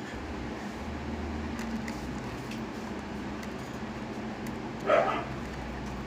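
A single short animal call about five seconds in, over a steady low hum.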